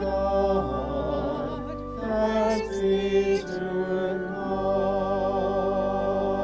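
Church music: a singing voice with vibrato holds long notes over a sustained low keyboard accompaniment.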